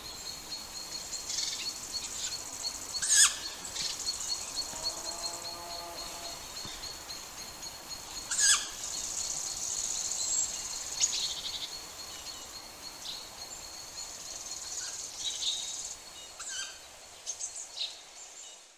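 Woodland ambience: birds calling, with loud sharp chirps a few seconds apart over a steady high insect-like buzz. The sound fades out at the end.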